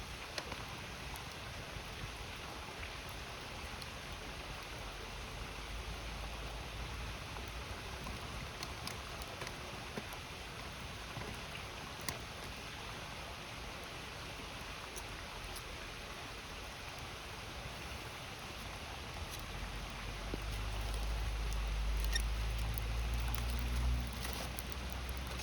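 Campfire crackling with occasional sharp pops over the steady rush of a river. A low rumble builds near the end and drops away just before the close.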